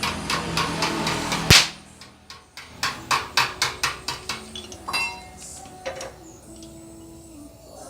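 Hammer blows on car body sheet metal in quick runs of about four or five strikes a second, with one much louder blow about a second and a half in. A second run follows after a short pause, then a couple of single blows, and faint music comes in near the end.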